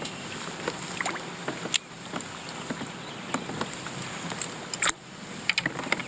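Steady water and hull noise from a small fishing boat on the move, with scattered sharp clicks and knocks, the clearest about two seconds in and near five seconds.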